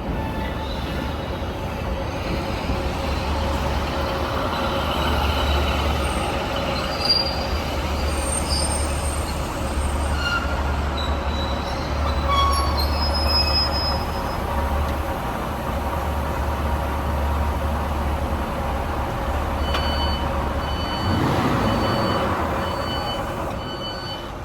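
A train moving through a station, with a steady low rumble and high, thin wheel squeals coming and going. Near the end a short two-tone beeping repeats several times.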